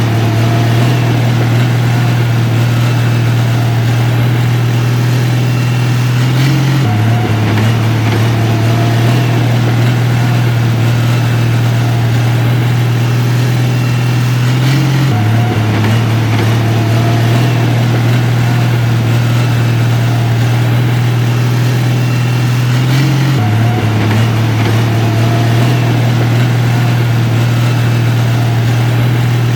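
Heavy diesel engine of construction equipment running steadily, a low drone whose pitch steps slightly and repeats in the same pattern about every eight seconds.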